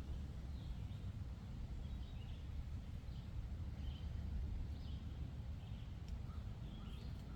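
Small birds chirping faintly, short calls repeating every half second or so, over a steady low rumble.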